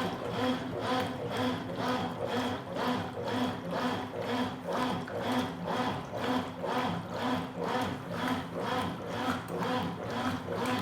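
Consul Supercargo 8 kg top-loading washing machine agitating a load of towels in water: the motor hums and the agitator swishes back and forth in a steady rhythm of about two strokes a second.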